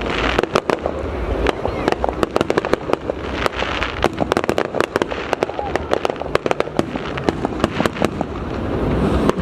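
Aerial fireworks display: a dense, irregular run of sharp cracks and pops from shells bursting, over a low rumble.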